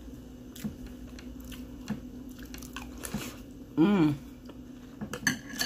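Chewing a mouthful of Honey Nut Cheerios in milk, with a few light clicks of a metal spoon against a ceramic bowl. About two-thirds through comes a short voiced hum, the loudest sound, and near the end a quick cluster of spoon clicks with a brief ring.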